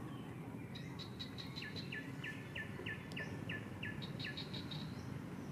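A bird calling in the background: a run of about ten short, falling notes, three or four a second, beginning about a second and a half in. Higher chirps come just before and after the run, over a steady low outdoor background noise.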